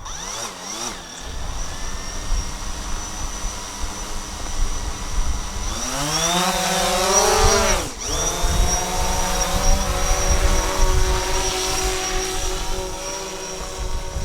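DJI Phantom 4 quadcopter's motors and propellers whining, rising in pitch from about six seconds in, dipping sharply near eight seconds, then holding a steady hum. Wind rumbles on the microphone.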